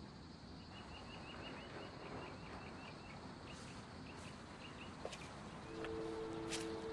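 A bird chirping faintly over quiet outdoor ambience: a quick run of short high chirps, then a few scattered ones. Near the end, two held low notes of music come in.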